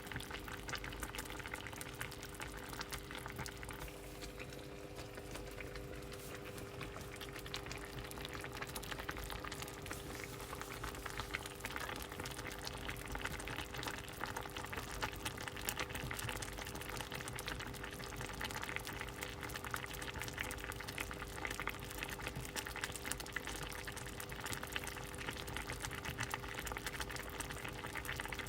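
A pot of soup boiling: a dense, steady crackle of bubbles popping, a little busier after the first few seconds, over a faint steady hum.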